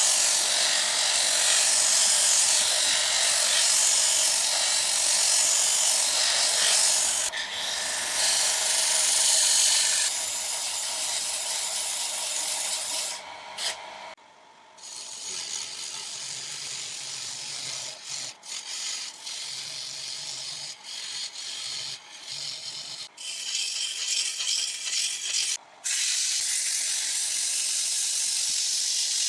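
Wood being worked on a spinning lathe, a steady scraping and rubbing noise against the turning wood. About halfway through it drops to a quieter, stop-start scraping with short breaks, then runs steadily again near the end.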